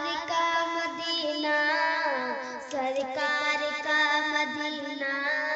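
A woman's voice singing the opening melody of an Urdu naat, with long held notes that glide and bend in pitch.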